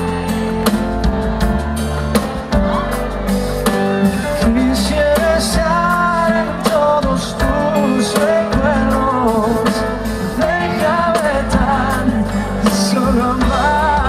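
Live band playing a romantic pop song, with drum kit, bass and guitar keeping a steady beat under sustained chords. About four seconds in, a wavering lead melody comes in over the band.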